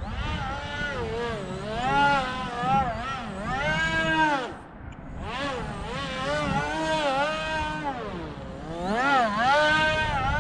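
Whine of a small brushless D2205 motor and propeller on an RC flying model in flight, its pitch swinging up and down repeatedly as the throttle changes, with a short drop about four and a half seconds in. Wind rumble on the microphone runs underneath.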